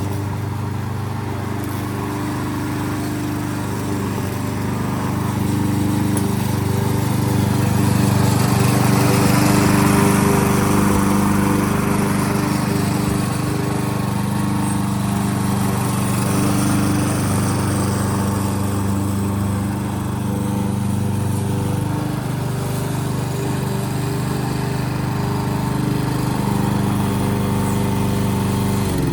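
Small engine of a 2014 Yardworks front-wheel-drive push lawnmower running steadily while cutting grass, with the cutting noise swelling and easing as it moves.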